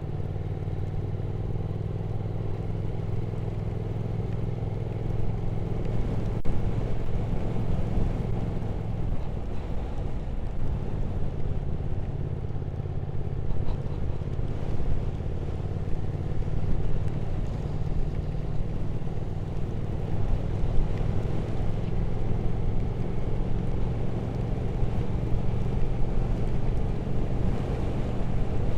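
Triumph Speed Twin 1200 parallel-twin engine running steadily under way, with road and wind noise. The engine tone blurs for a few seconds about nine seconds in, then steadies again.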